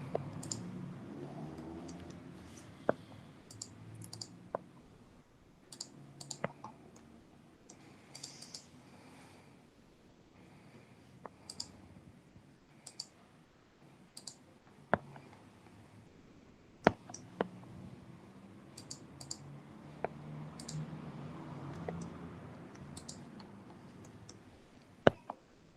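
Faint, scattered clicks of a computer mouse and keyboard keys, a few seconds apart, with a quick pair of louder clicks near the end.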